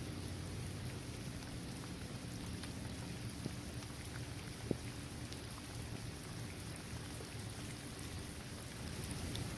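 Steady rain falling on a basketball court, trees and grass, with scattered individual drops ticking through it and one sharper drop hit about halfway through.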